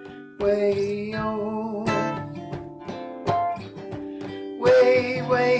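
A man singing with acoustic guitar accompaniment, holding the vocable 'yo' about two seconds in and singing again near the end, over plucked and strummed chords. The guitar stops briefly at the start, then comes back in.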